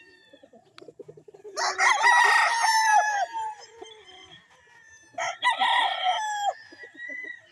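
A stag, a young rooster, crowing twice: a long crow about one and a half seconds in and a shorter one about five seconds in, with low clucking between the crows.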